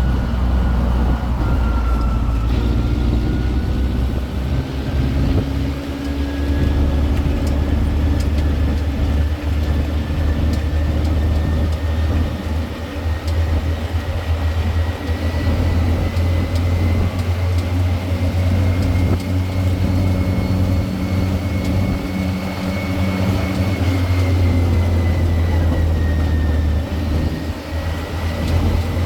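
City tour train's engine running under way, a steady low hum with a thin whine that slowly rises and dips as the speed changes.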